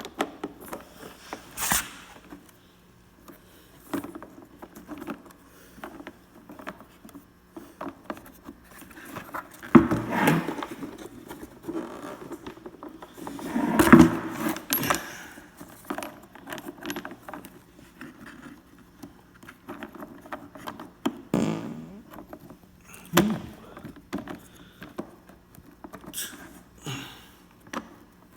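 Hand work on a car's air filter housing: small metal and plastic parts (the filter screen and its screws) being handled, with scattered clicks, light jangling and scrapes and two louder knocking spells about ten and fourteen seconds in.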